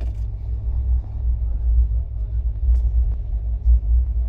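Low, steady rumble of a moving passenger train heard from inside the coach, the running noise of the wheels on the track swelling and easing slightly, with a few faint clicks.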